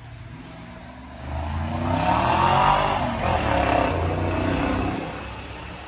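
A loud car engine swells in about a second, runs loud for about three seconds with its pitch shifting, then fades away.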